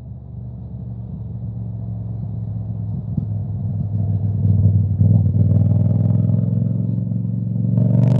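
Yamaha Tracer 7's 689 cc parallel-twin engine with an Akrapovic exhaust, running at low revs with a pulsing beat and growing gradually louder. Near the end it settles into a steadier, higher note with wind rush on top.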